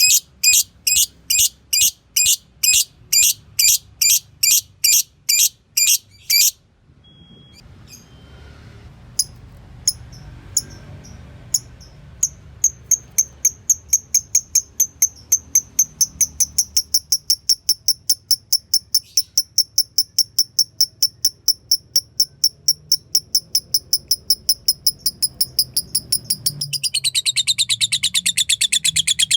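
Fighter lovebird calling: a run of sharp high chirps about twice a second, a pause, then rapid ticking ('ngetik') that speeds up and breaks into a long, louder fast chattering trill ('ngekek') near the end.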